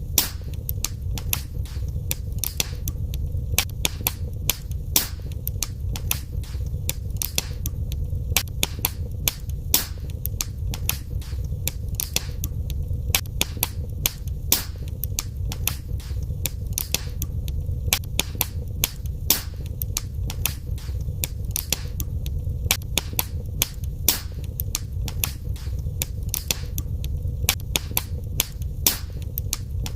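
Wood fire crackling in a fireplace: sharp pops and snaps several times a second over a steady low rumble.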